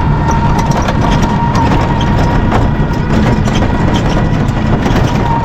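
Riding in a toto, a battery e-rickshaw: a steady low rumble with a thin steady whine, and scattered short rattles and knocks.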